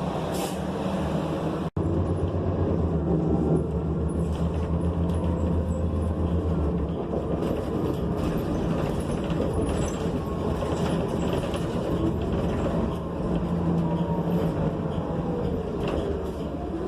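Cabin noise of a New Flyer XN40 city bus on the move: its Cummins Westport ISL G natural-gas engine and Allison transmission running with a strong low drone for the first several seconds, easing into steadier road and running noise. The sound cuts out for an instant just under two seconds in.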